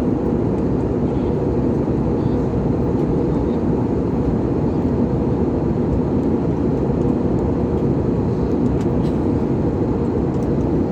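Steady, low roar of an airliner cabin in flight: engine and airflow noise heard from inside the cabin.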